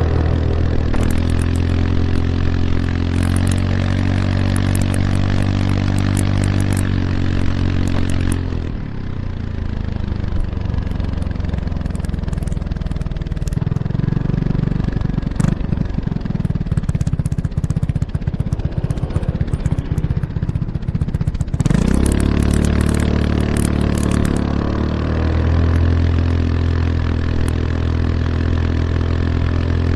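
Kymco X-Town scooter's single-cylinder engine through an Arrow Urban exhaust with its dB killer fitted, heard right at the exhaust while riding. It runs at a steady cruising note for about eight seconds, then drops to a low, uneven rumble off the throttle for about thirteen seconds. It then picks up sharply, the revs climbing and settling back into a steady note.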